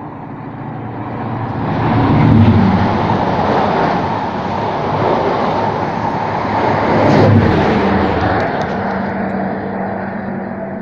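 Diesel InterCity 125 express train passing through the station at speed, a rush of wheel and rail noise with engine sound. The noise builds to a peak about two seconds in, peaks again around seven seconds, then eases off into a steady hum.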